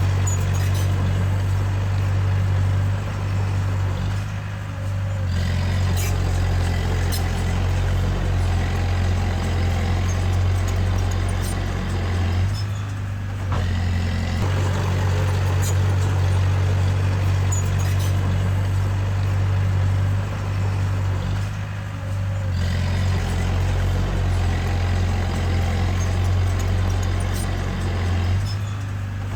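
Heavy earthmoving machinery's diesel engine running steadily under work, with a deep, even hum. The level dips briefly about every eight or nine seconds.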